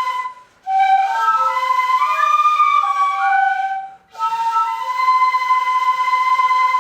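Shinobue, Japanese bamboo transverse flutes, played together in parts, with several notes sounding at once. Two short phrases are broken by brief breath gaps, about half a second in and about four seconds in, and the last phrase ends on a long held note.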